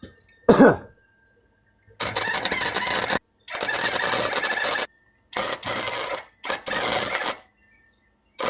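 Welder laying short bursts of crackling arc, four bursts of about a second each with brief pauses, filling a hole in a welded exhaust pipe. A short loud falling-pitched sound comes about half a second in, before the welding starts.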